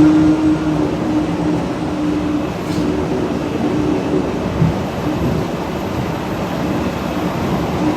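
DFW airport's Skylink people-mover tram running along its guideway, heard from inside the car: a steady rumble and rolling noise, with a motor tone that breaks up and fades about two and a half seconds in.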